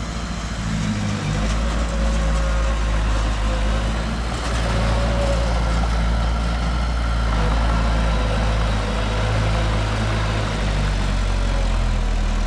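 Heavy diesel engine of earthmoving machinery running steadily, with a faint whine over its low drone.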